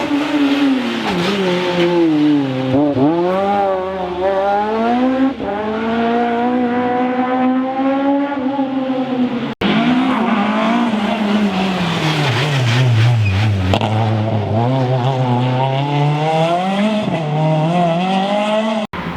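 Rally car engine under hard driving, its pitch rising and falling repeatedly as the driver revs and lifts through the corners, with some tyre squeal. The sound drops out abruptly for an instant twice.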